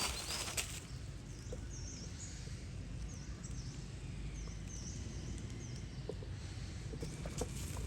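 Outdoor ambience: a steady low rumble with a scattering of short, high chirps from small animals, and a few sharp clicks or taps near the start and near the end.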